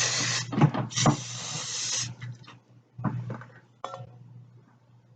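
Aerosol hairspray can spraying in two bursts, a short one and then one of about a second, followed by a few light knocks of the can or comb being handled.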